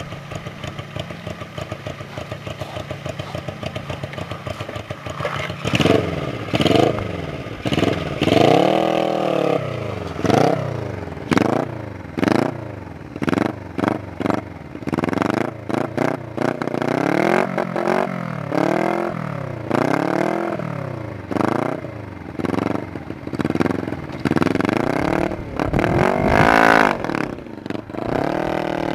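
Honda CB125TT twin-cylinder engine through open, cut-down header pipes: loud, idling at first, then from about five seconds in revving up and dropping back over and over as the bike is ridden off, pitch climbing and falling every second or two.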